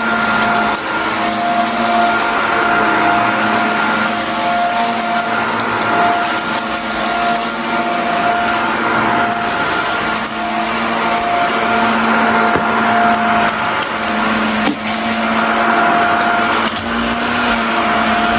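Vacuum cleaner running steadily with a continuous motor whine over a rushing hiss. Scattered clicks and crackles come through as crunchy debris is sucked up.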